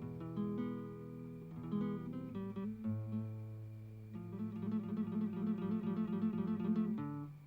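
Acoustic guitar music: plucked and strummed notes over a held bass, turning to a fast repeated plucked figure about four seconds in.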